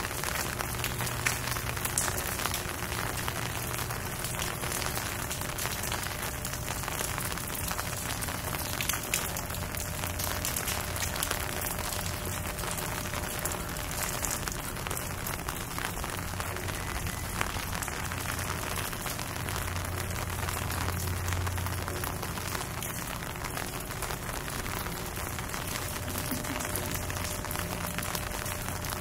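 Steady rain falling, many small drop impacts ticking together, with a faint low hum underneath and an occasional sharper click.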